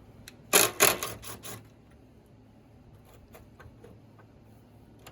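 A quick run of four loud, short scraping clatters of tools and car parts being handled, followed by faint scattered clicks and knocks.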